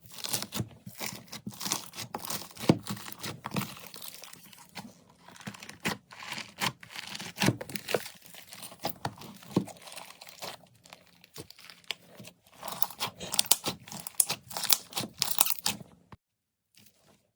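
Slime being squeezed and pressed by hand, giving a dense run of crackling pops that stops suddenly about a second before the end.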